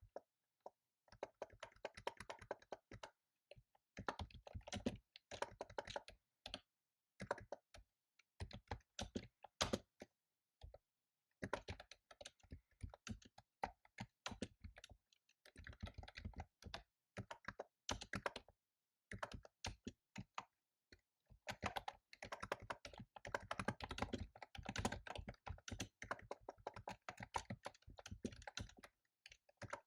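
Typing on a computer keyboard: fast runs of keystrokes in bursts, broken by short pauses.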